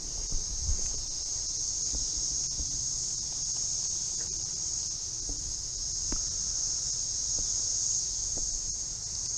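Cicada chorus: a steady, high-pitched drone, with a faint low rumble and a few small clicks beneath it.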